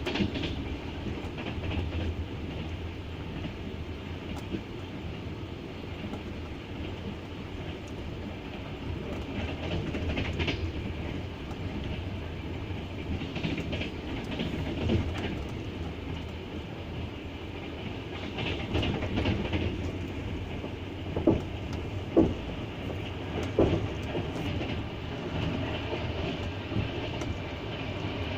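Wheels of a double-decker passenger train clattering over the rail joints at running speed, over a steady rumble, with a few sharper knocks a little past two-thirds of the way through.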